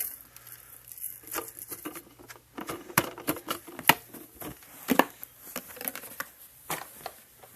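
Irregular plastic clicks, taps and rattles from handling and emptying the dust canister of a Kenmore bagless vacuum cleaner, with a few louder knocks.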